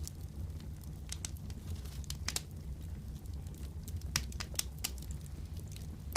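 Wood fire crackling, with sharp pops scattered over a steady low rumble of the flames.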